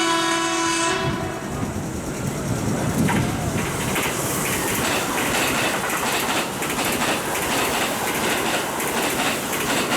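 A Kintetsu electric train's horn sounds and cuts off about a second in, then the train runs through with its wheels clattering over the rail joints in a quick, repeated rhythm.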